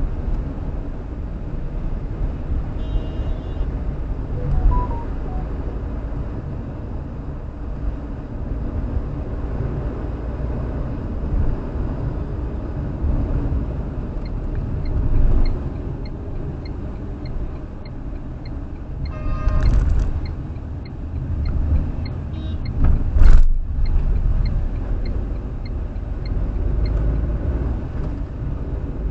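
Steady road and traffic rumble heard from a moving car. About two-thirds of the way through comes a short pitched blast, and a few seconds later a louder, brief burst of noise. Faint regular ticking runs through the second half.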